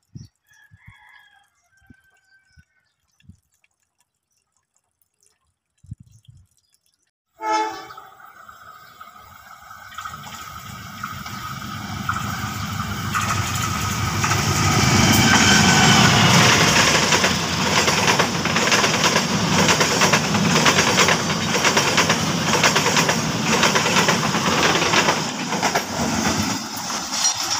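CC 201 diesel-electric locomotive hauling a passenger train past: a short horn blast about seven seconds in. Then the engine rumble builds to its loudest as the locomotive passes, followed by the steady rhythmic clatter of the coaches' wheels over the rail joints.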